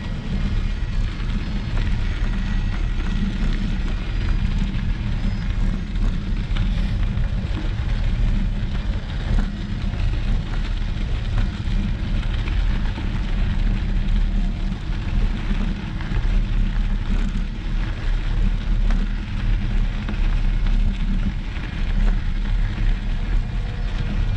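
Steady low rumbling noise with a fainter hiss above it, fluttering in level throughout.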